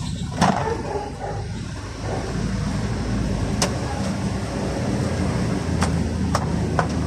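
A vehicle engine running with a steady low hum, with a few sharp clicks over it.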